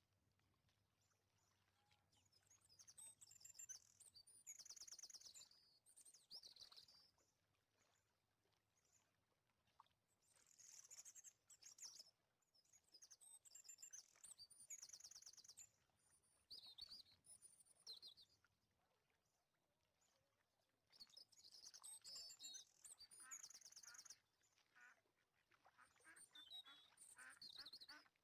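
Faint bird chirping: short bursts of rapid, high twittering calls, coming every second or two.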